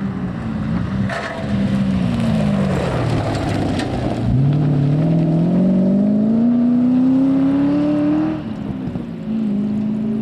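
Rally car engine on a stage. Its revs fall for a few seconds as it slows, with a few sharp cracks. They then climb steadily for about four seconds under acceleration, cut off sharply, and pick up again near the end.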